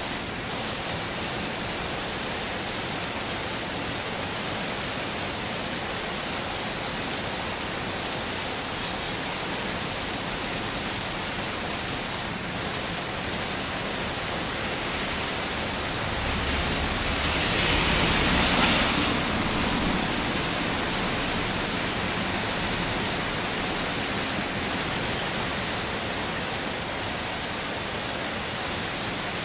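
Heavy rain falling in a steady hiss. Around the middle it swells louder for a few seconds, with a low rumble underneath. Three very short dips come at even spacing, about every twelve seconds.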